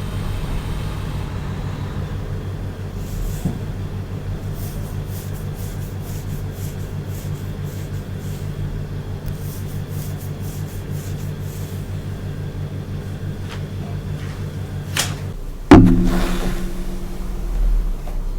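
A steady low hum, like a small motor or electrical hum, with faint light strokes over it. About three seconds before the end, one sharp loud knock rings briefly and fades.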